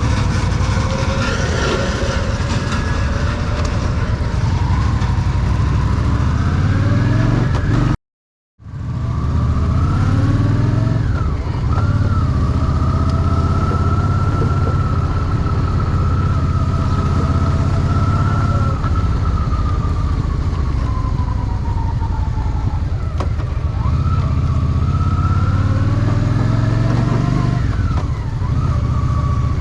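Honda Shadow VT750's V-twin engine running steadily under way, with a high, slowly wavering whine above it for much of the time. The sound cuts out completely for about half a second some eight seconds in.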